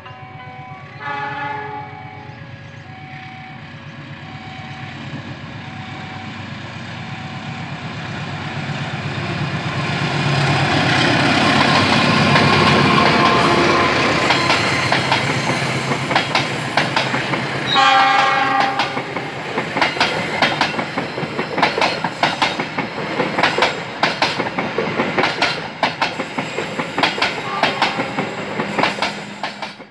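Diesel-hauled passenger train running through a station without stopping: a horn blast about a second in, the locomotive growing louder and passing near the middle, another short horn blast, then a fast clickety-clack of carriage wheels over the rail joints that cuts off suddenly at the end.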